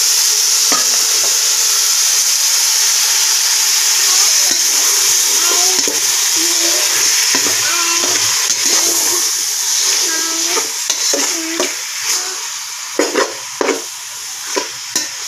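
Diced pork and squash sizzling in hot oil in an aluminium pot, stirred with a metal spoon that scrapes the pot. The sizzle eases off in the second half, and the spoon knocks against the pot several times near the end.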